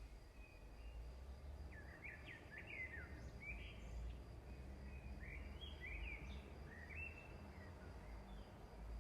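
Faint bird chirping: quick runs of short chirps, starting about two seconds in and going on to near the end, over a steady low hum.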